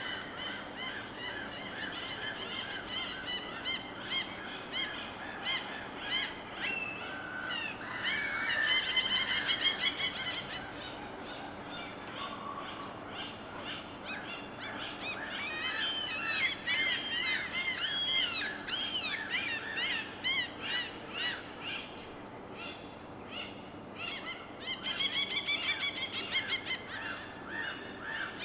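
Birds giving rapid series of short, harsh honking calls, several overlapping, in bouts that swell and fade, over a steady wash of water.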